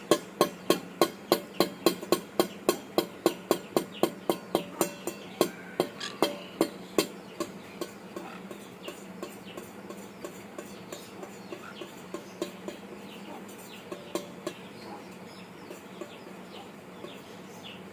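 A quick run of sharp taps, about three a second, that thins out after about seven seconds, with faint short bird calls in between.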